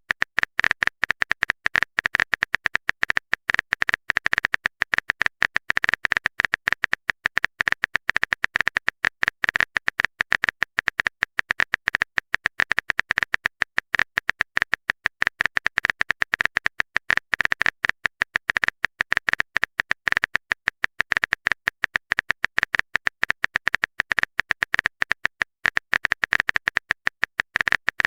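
A rapid, unbroken train of sharp clicks, many per second, each with the same bright click tone, like a phone-keyboard typing sound effect.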